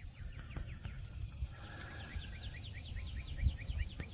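A bird giving a rapid run of short, high chirps, about seven a second, over a low background rumble.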